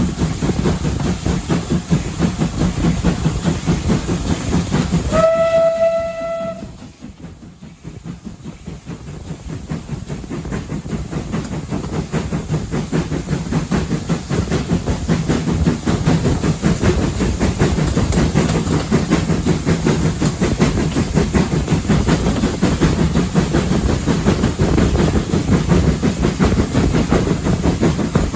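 Steam train running on the line, its loud rumble and rapid clatter continuing throughout. A short steam whistle blast sounds about five seconds in. The noise then drops away for a few seconds before building up again.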